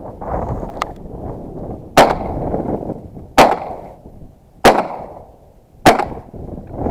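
Stoeger 2000 semi-automatic 12-gauge shotgun firing four shots in quick succession, about a second and a quarter apart, at ducks in flight.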